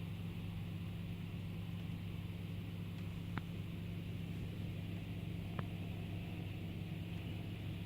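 A steady low mechanical hum, like a motor running, with two faint clicks about three and a half and five and a half seconds in.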